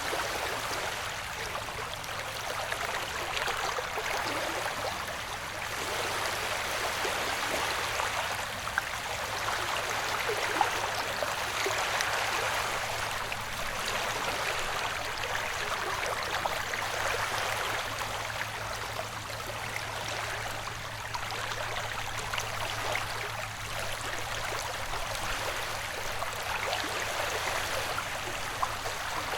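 Ocean-wave white noise: an even rushing of water that swells and eases gently every few seconds, with a faint steady low hum beneath.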